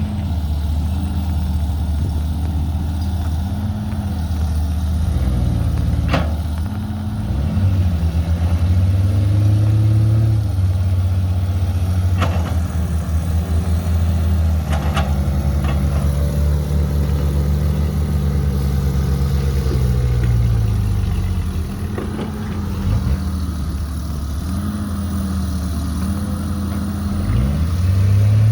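Caterpillar 312B hydraulic excavator's diesel engine running, its pitch repeatedly rising and falling as it works, with a few sharp knocks.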